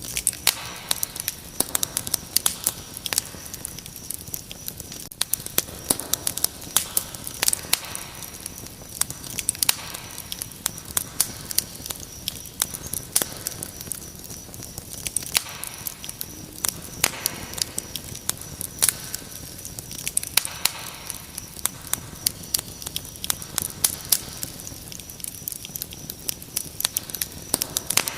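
Wood fire crackling with frequent sharp pops, over a steady high-pitched cricket trill.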